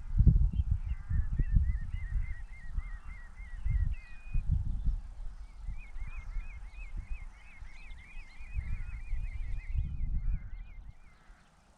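A small songbird sings two runs of quick, evenly repeated chirping notes, the second run longer than the first. Under the song runs a low, gusty rumble of wind on the microphone, louder than the bird, which dies away near the end.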